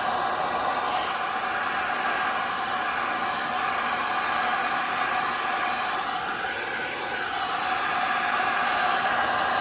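Handheld heat gun running steadily with a steady rushing blow, used more for its fan than its heat to push and dry alcohol ink on a tumbler.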